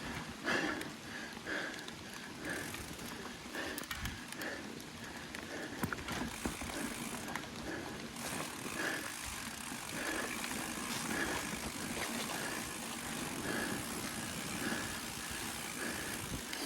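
Mountain bike ridden over wet, rocky trail: tyres rolling and scrabbling over limestone, with the chain and frame rattling over the bumps and a soft pulse about once a second.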